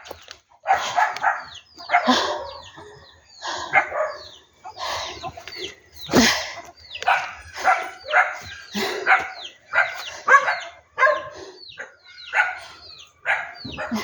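A dog barking over and over, in short separate barks about once or twice a second with a few brief pauses.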